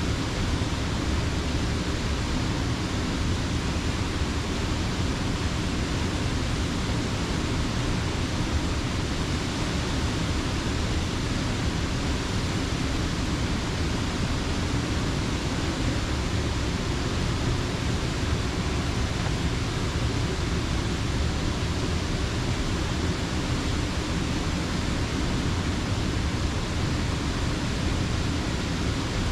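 Rushing creek water: a steady, even hiss and rush with no breaks or separate sounds.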